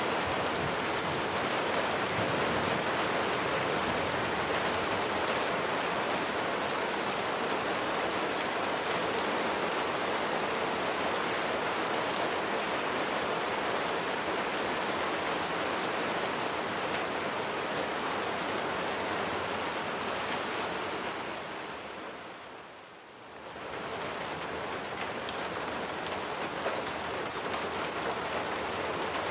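Steady rain falling, a dense even wash of drops. About two-thirds of the way in it fades down briefly and then comes back to the same level.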